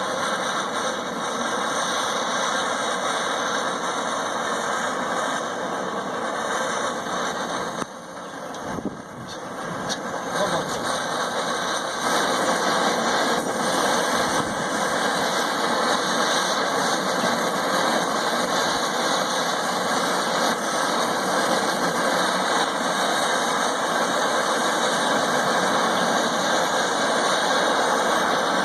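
Brazing torch flame hissing steadily as it heats a copper pipe joint. It dips briefly about eight seconds in and then runs a little louder.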